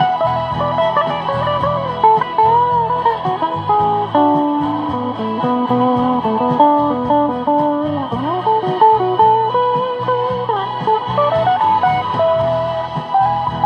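Guitar music: a melodic lead line over lower sustained notes, with some notes sliding in pitch.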